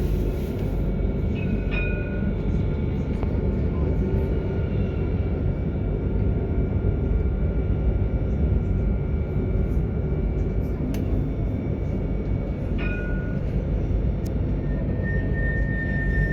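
Alstom Citadis tram running, heard from the driver's cab: a steady low rumble of wheels on rail, with brief high tones about two seconds and thirteen seconds in and a thin high tone that comes in near the end.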